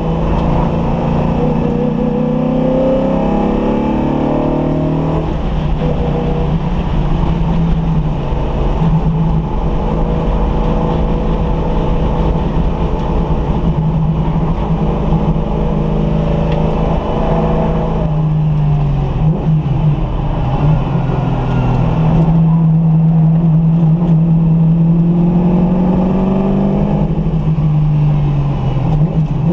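Car engine pulling hard through the gears, its pitch climbing under acceleration and dropping at each gear change, about five seconds in, again past halfway, and near the end. The engine is being run in.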